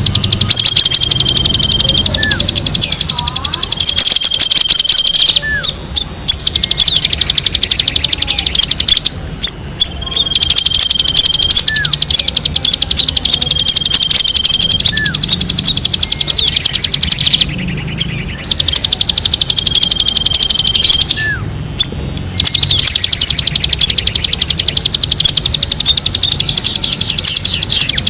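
Recorded bird song played as a lure call: dense, very rapid high-pitched chattering in long runs broken by short pauses, with held whistled notes and brief down-slurred whistles in between.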